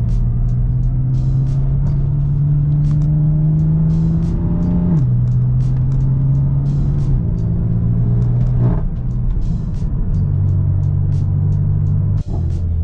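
BMW F80 M3 running down the road, a steady low engine drone whose pitch drops with a short glide about five seconds in and changes again near nine seconds, as with gear changes. Background music with a steady beat plays over it.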